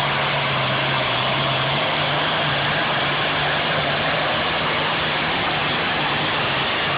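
Tractor engine running steadily at an even speed, a constant low hum under a dense wash of engine noise, with no revving.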